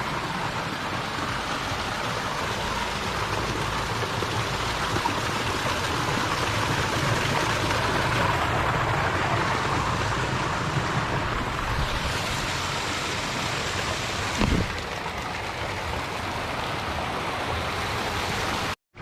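Water running steadily through the trout farm's spring-fed ponds and channels, with a single short knock about two-thirds of the way in.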